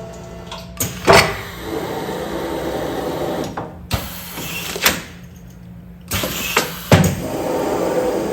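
Commercial food-container sealing machine cycling through continuous packing: sharp clunks as it works, with a steady mechanical running sound between them.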